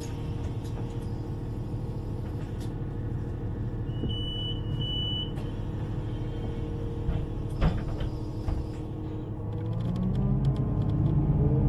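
Underground train running with a steady rumble, with two short high beeps about four seconds in. From about ten seconds in, the electric traction motors whine, rising in pitch and getting louder as the train accelerates.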